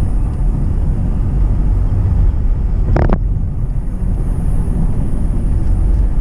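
A car driving on a rough two-lane road, heard from inside the cabin: a steady low rumble of tyres and engine. A short sharp sound comes about three seconds in.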